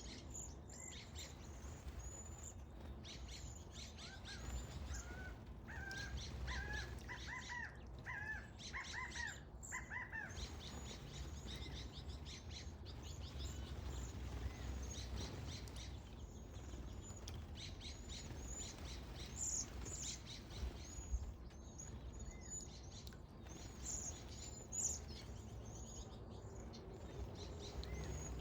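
Waxwings calling: many short, high, thin calls throughout, joined by a run of lower chirps between about four and ten seconds in, over a steady low background rumble.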